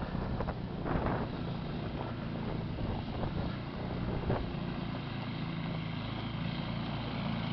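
Footsteps crunching through snow during the first few seconds, over a steady engine drone and wind on the microphone.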